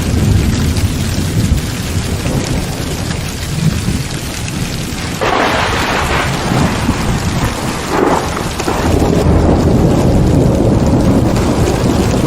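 Heavy rain pouring steadily, with rolling thunder rumbling low throughout. The rumble brightens into louder cracks about five seconds in and again about eight seconds in.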